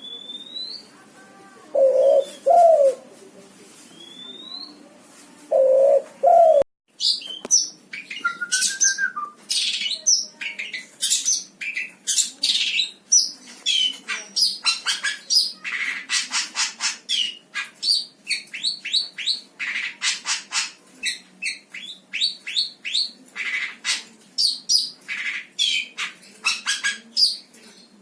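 Birds singing: two low calls and a thin rising whistle in the first few seconds, then, after a brief break, a songbird's loud, rapid chirps and trills that keep on densely.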